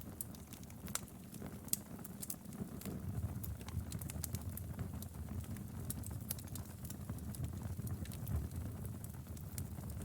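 Firewood burning in a fireplace, crackling with scattered sharp pops and snaps at irregular intervals over a low, steady hiss of the flames.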